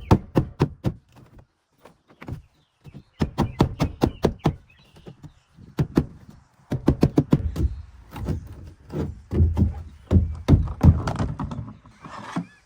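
Hammer pounding a chisel into a boat's fiberglass subfloor to break out the rotted core beneath. It comes as runs of rapid, hard strikes, several a second, with short pauses between.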